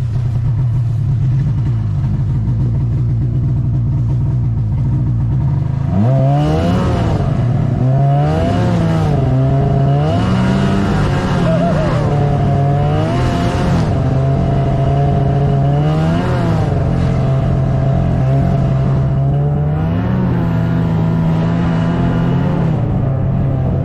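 Snowmobile engine running at a steady speed, then from about six seconds in revving up and down repeatedly as the throttle is opened and eased, holding steady for a few seconds between changes.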